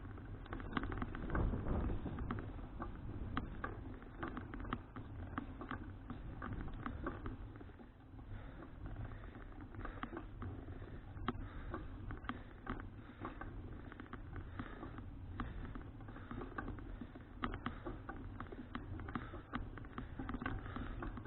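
Folding bicycle being ridden: irregular small rattling clicks over steady road and wind noise, with a deep rumble loudest about a second in.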